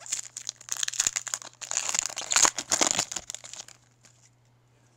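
Foil wrapper of a trading-card pack crinkling and tearing as it is opened by hand, for about three and a half seconds, then stopping.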